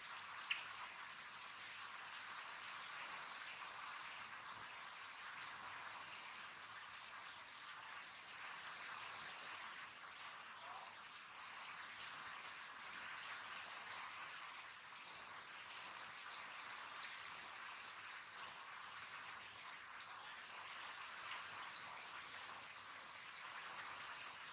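Steady rain falling, a soft even hiss, with a handful of brief sharp high ticks scattered through it.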